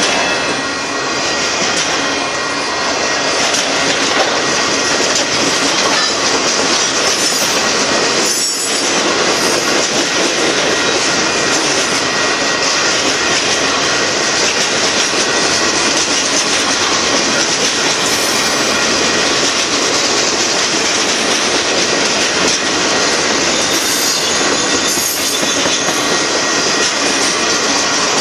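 Union Pacific manifest freight train's cars rolling past: a loud, steady rumble of steel wheels on rail, with a thin squeal held underneath and a few brief higher squeals.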